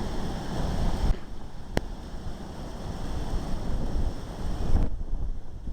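Strong gusty wind blowing hard and buffeting the microphone, surging and easing from one gust to the next.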